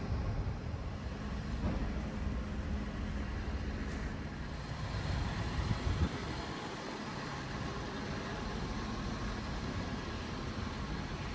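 Ford Mondeo ST24's 2.5-litre V6 engine running steadily at idle, with a brief louder moment about six seconds in.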